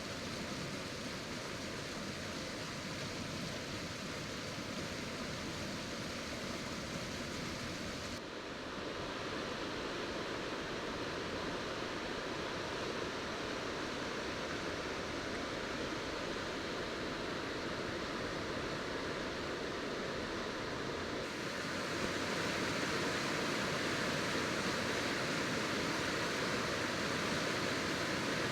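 Ventura River running high after heavy rain: a steady rush of flowing water. The sound changes abruptly twice, about 8 seconds in and again about 21 seconds in, getting fuller and brighter the second time.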